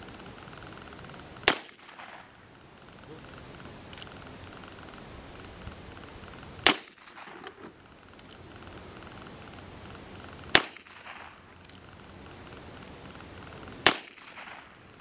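Heritage Arms Rough Rider .22 revolver firing CCI .22 Long Rifle bird-shot shells, four sharp shots a few seconds apart, each with a short ring-off. Faint clicks come between the shots.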